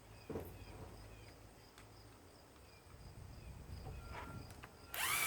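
Faint, short repeated chirps in the background, then about five seconds in a power drill starts up loudly with a rising whine, working on the mower's screws.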